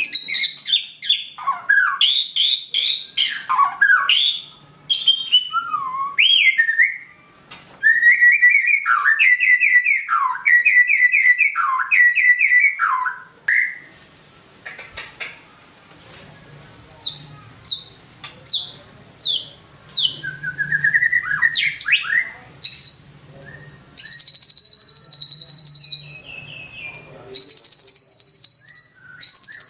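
White-rumped shama (murai batu) singing in full, continuous song: loud sweeping whistles and runs of quick repeated notes, with two buzzy high trills of about two seconds each near the end.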